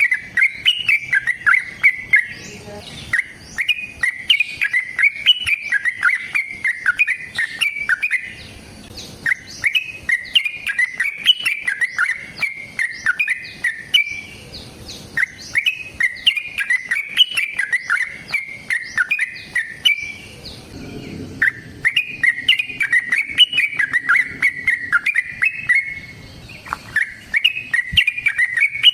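Yellow-vented bulbul (trucukan) singing long runs of rapid chattering notes, in bouts of about five seconds broken by short pauses. This is the long, fast 'ropel panjang' fighting song used to provoke other trucukan into answering.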